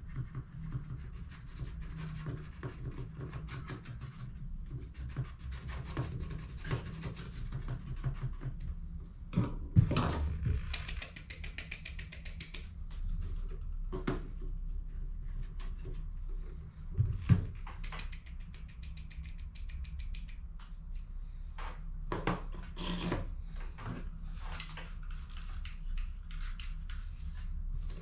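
Hands working on an HP CE285A laser toner cartridge: plastic parts rubbing and scraping with many small clicks, and a sharper knock about ten seconds in and again near seventeen seconds, over a low steady hum.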